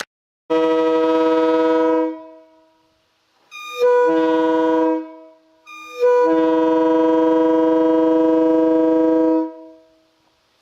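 Multi-chime railway air horn sounding a chord of several notes in three blasts: two of about a second and a half, then a long one of about three and a half seconds.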